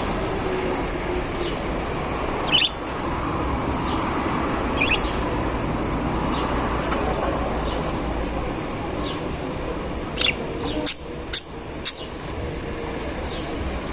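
Caged budgerigars giving scattered short high chirps over steady background noise, with three sharp short sounds in quick succession near the end.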